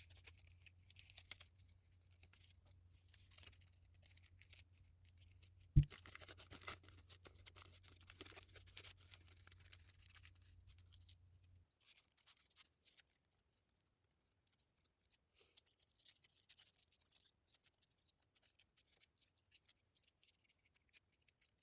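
A sheet of paper being folded and creased by hand, faint rustling and scratching, with one sharp knock about six seconds in. A low steady hum runs underneath through the first half and stops suddenly.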